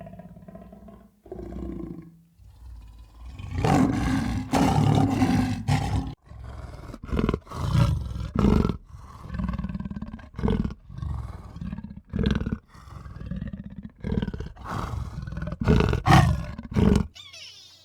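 Bison bellowing: a long, low call about three and a half seconds in, then a run of shorter bellows, roughly one a second.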